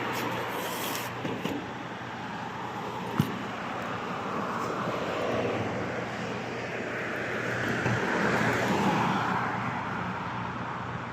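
Motorbike engine running steadily under road and wind noise, swelling a little about eight seconds in, with one brief click about three seconds in.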